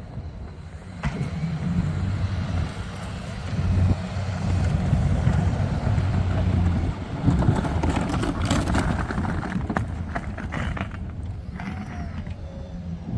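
A vehicle engine running steadily with a low hum. From about seven to eleven seconds in, a louder stretch of scraping and rattling noise rides over it.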